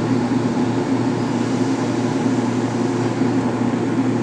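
Heavy cargo-handling machinery running steadily, a constant low engine drone with an even hum and no change in speed.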